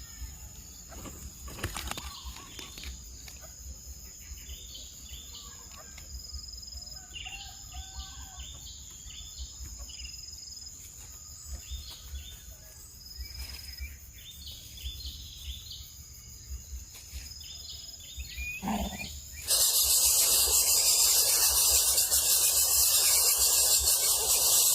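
Faint short bird chirps over a steady high insect-like tone; about three-quarters of the way in, a loud steady hiss cuts in suddenly and drowns them out.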